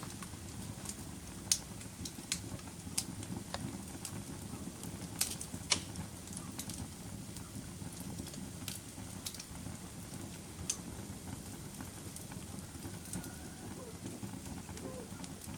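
Campfire burning: a steady low rush of flames with irregular sharp crackles and pops from the burning wood, more frequent in the first half.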